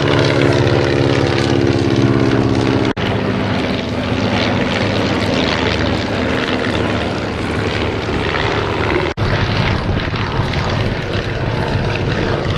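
Piston engines of propeller-driven First World War-type aircraft, a Sopwith triplane and Pup, running steadily as they fly over the field. The sound drops out for an instant twice.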